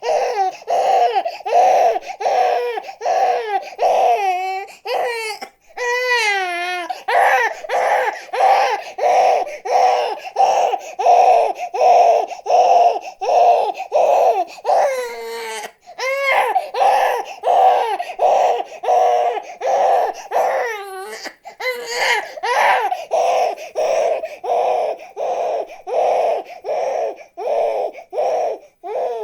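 A baby crying hard without pause: short, rapid, repeated cries, about three a second, broken a few times by longer wavering wails.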